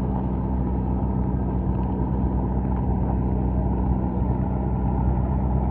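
Car engine idling steadily, a low, even hum with no revving.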